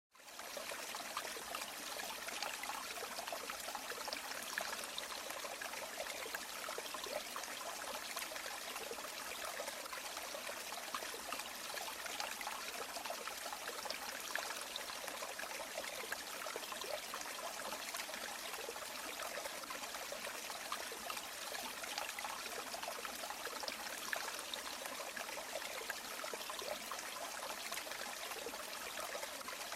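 River water flowing and babbling over stones, a steady splashing rush that fades in at the very start.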